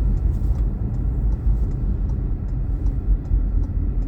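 Steady low road and engine rumble heard from inside a moving car's cabin, with a faint regular ticking about two to three times a second.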